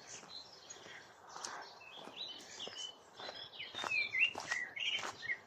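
Small songbirds singing in a reedy marsh, a quick run of short up-and-down chirping notes that grows busier and louder in the second half.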